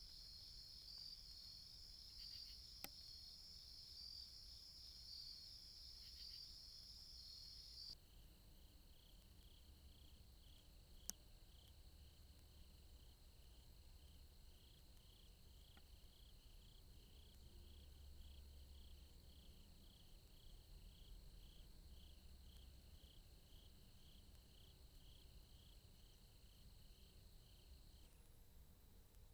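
Faint night insects, crickets, chirping: a steady high trill at first, then, after an abrupt change about eight seconds in, a lower chirp repeating evenly about one and a half times a second. Two faint clicks.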